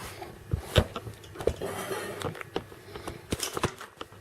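A series of irregular clicks and knocks, the loudest just under a second in.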